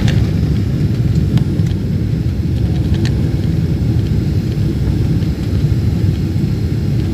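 Airliner cabin noise during landing: a loud, steady low rumble from the engines and airflow, with a few light clicks.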